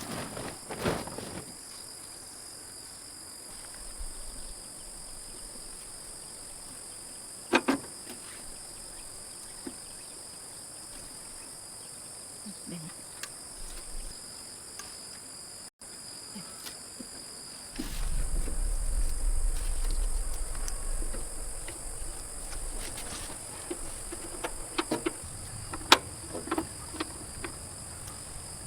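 Steady, high-pitched chorus of insects chirping. There are a few scattered sharp clicks and knocks, and a low rumble between about 18 and 21 seconds in.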